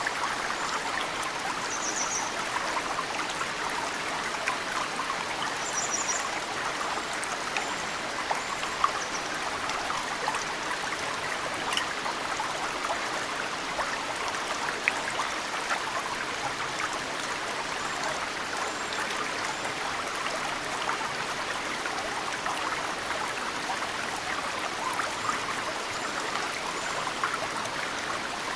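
Mountain stream running steadily, with meltwater drops falling into it as a few sharper plinks. Short high bird chirps come twice in the first few seconds.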